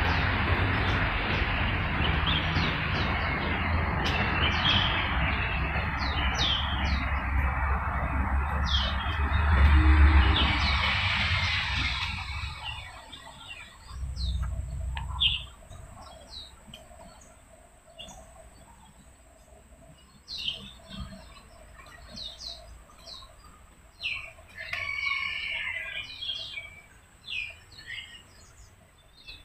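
Small birds chirping in short, quick downward calls, scattered through the whole stretch and clustering about two thirds of the way in. For the first dozen seconds a loud rushing rumble covers them, swelling about ten seconds in and then fading away. A faint steady high tone runs under the later part.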